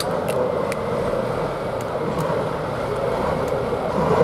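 A heavy vehicle's engine running steadily, with no clear change in speed.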